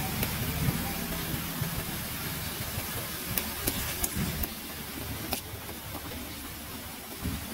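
Steady frying sizzle from a hot wok as raw eggs are poured onto mashed eggplant, with a few sharp clicks of the metal spatula against the wok and bowl. There is a low rumble during the first two seconds.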